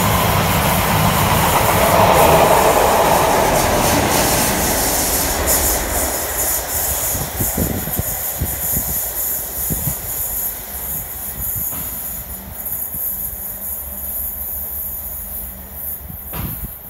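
A locomotive-hauled train of London Overground multiple-unit carriages passing through at speed. Loud rolling and wheel noise for the first few seconds, then fading as the train pulls away, with wheels clicking over rail joints.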